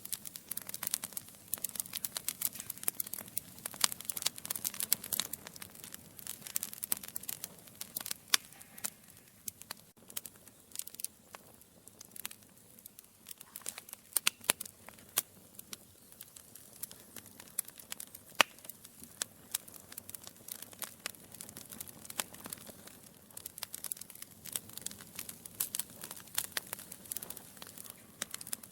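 Wood fire in a fireplace, logs crackling and popping in many irregular sharp snaps over a soft low hiss of the flames.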